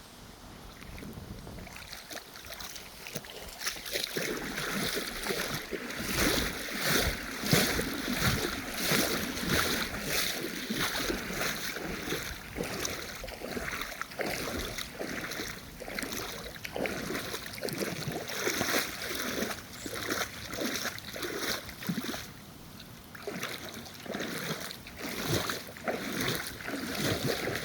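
Someone wading through shallow floodwater, each step a splashing slosh, starting about two seconds in and going on at a walking pace.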